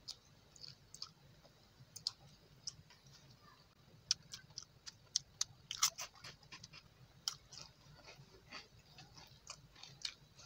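A person chewing rice and meat with wet lip smacks and sharp mouth clicks, a dense cluster of them about halfway through.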